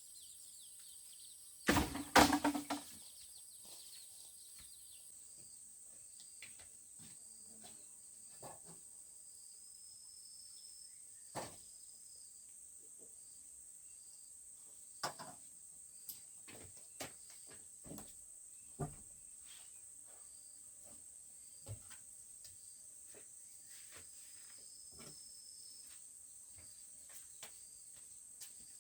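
Outdoor rural ambience with a steady high insect drone and faint repeated chirps. A cluster of loud knocks comes about two seconds in, followed by scattered light taps and clicks.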